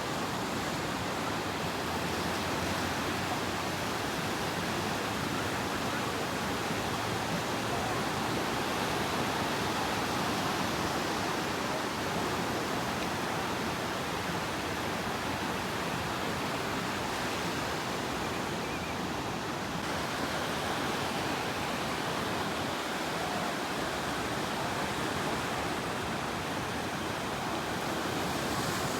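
Steady rushing of moving water, an even noise with no rise and fall, with a slight change in its tone about two-thirds of the way through.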